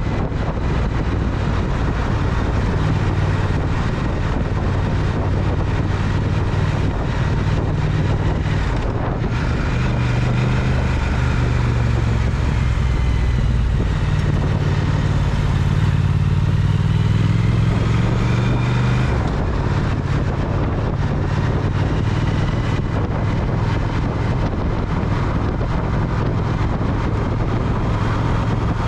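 Triumph Speed Twin's parallel-twin engine running under way, its pitch shifting with the throttle: a step at about a third of the way in, then a slow climb that drops back just past the middle. Wind and road noise lie under it throughout.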